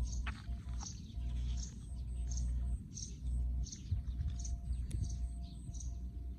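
A bird repeating a short, high chirp at a steady pace, about three calls every two seconds, over a low steady rumble of wind on the microphone.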